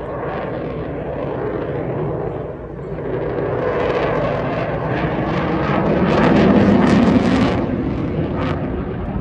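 Aircraft flying past during an airshow display, a steady noisy engine sound that grows louder to a peak about seven seconds in and then begins to fade.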